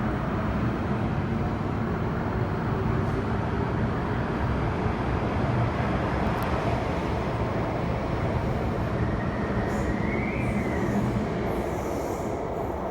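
MTR K-Train metro electric multiple unit running through an underground station, a steady rumble of wheels and traction gear. A brief whine rises and falls about ten seconds in, and the noise starts to fade near the end.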